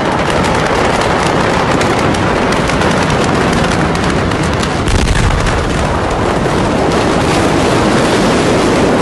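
Loud, steady roaring noise dense with crackles and pops from the fire and explosions at the blast site, swelling slightly about five seconds in.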